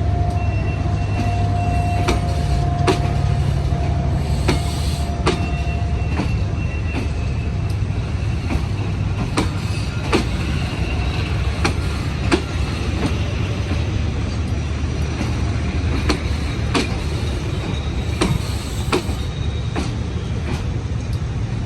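Passenger train pulling out and rolling past with a steady low rumble. Its wheels click irregularly over rail joints, and a steady wheel squeal runs through the first six seconds.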